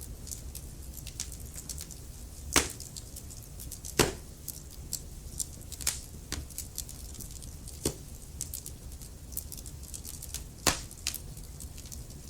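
Wood fire burning in a fireplace: a steady low rumble of flame under constant small crackles, with a few sharp louder pops from the burning logs, about four of them.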